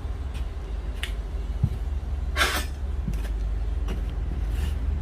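A few light knocks and clicks and one short scrape of objects being handled on a stove build in progress, over a steady low hum.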